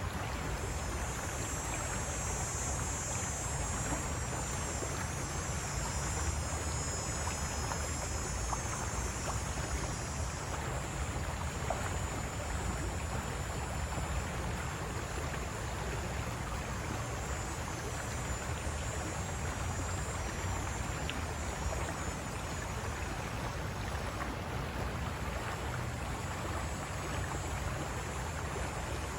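River water rushing steadily over rocks. A thin, high-pitched chirring of small creatures, likely insects, sits above it, fading out about ten seconds in and returning near the end.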